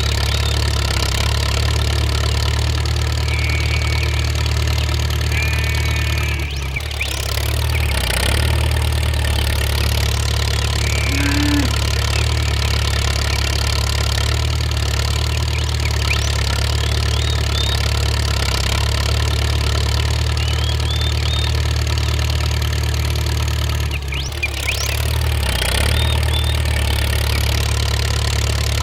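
A motor or engine running steadily with a constant low hum, dipping briefly twice, about seven and about twenty-four seconds in.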